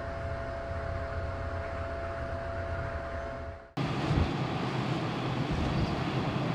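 Steady droning hum of a car ferry under way, a low rumble with a few fixed tones above it. Almost four seconds in it cuts abruptly to a louder, rougher rush of wind and ship noise with a heavy low rumble.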